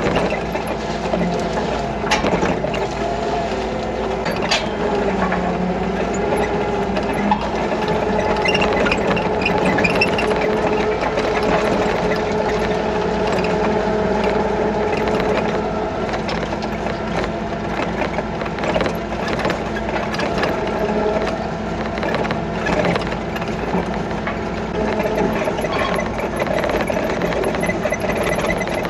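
A small engine running steadily, with mechanical clicking and ratcheting over it.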